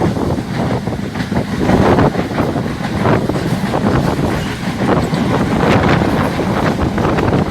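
Wind buffeting the microphone over the steady running of a moving train.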